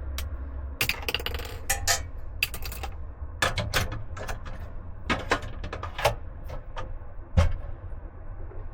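Irregular clinks, taps and knocks of cookware and utensils being handled, with a louder knock near the end, over a steady low hum.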